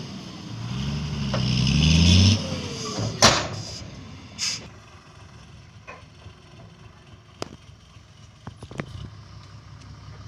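Fuso ten-wheel dump truck's diesel engine revving up for about two seconds, then falling back to a low idle. A sharp, loud knock comes about three seconds in and another a second later, followed by a few faint clicks.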